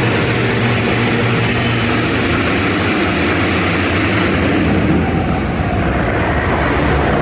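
Several motocross dirt bike engines running loud and steady together, the dense engine noise of a pack racing in an arena.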